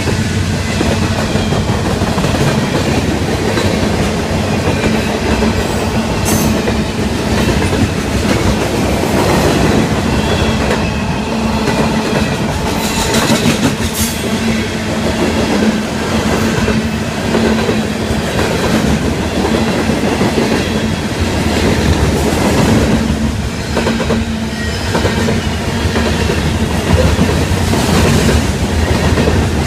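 Freight train cars rolling past, their steel wheels clicking steadily over the rail joints.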